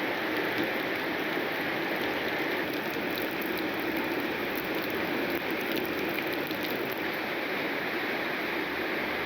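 Heavy rain falling steadily, with faint scattered drop ticks.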